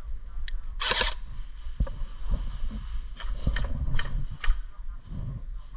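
Airsoft guns firing: a run of sharp clicking shots at about four a second in the second half. A short loud hiss comes about a second in, over low rumble of movement.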